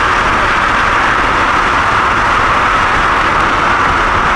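Steady road and wind noise from a car driving at speed, even and unbroken.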